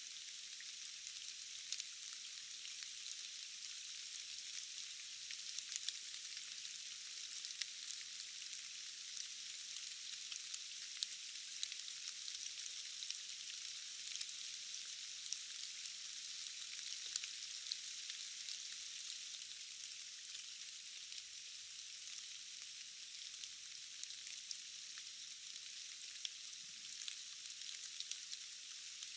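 Steady rain falling: a dense, even hiss with many tiny ticks of single drops. All of it is high-pitched, with no low rumble.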